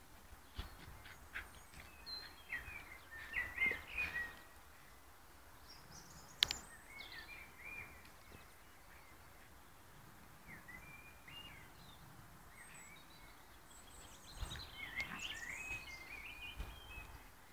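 Small birds chirping and twittering in short bursts of quick rising and falling notes, with a single sharp knock about six seconds in.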